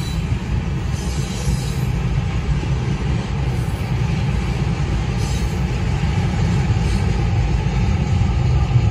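A freight train's tank cars rolling past a grade crossing: a steady low rumble of wheels on rail, muffled by a car's cabin, growing slightly louder toward the end.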